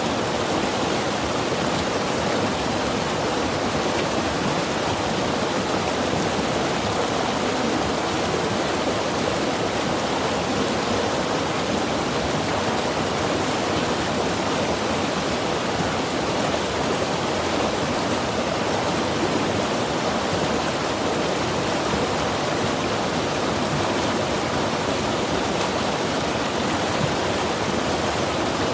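Mountain river rushing steadily over rocks, an even, unbroken roar of water.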